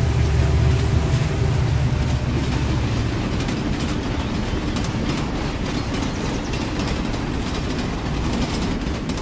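Train running past on its rails, a heavy low rumble with the clickety-clack of wheels over the track joints. The deep rumble eases about three seconds in, leaving a steadier rattling run.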